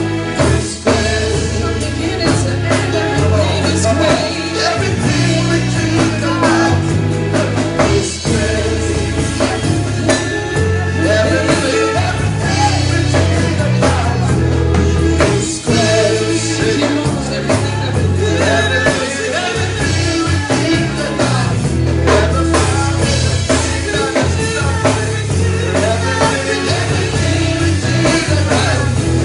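Live worship band music with singing: drums, bass and keyboards under sung vocal lines, in a steady full-band groove.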